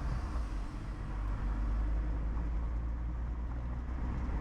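Steady low rumble of road and engine noise heard from inside a car cabin while driving.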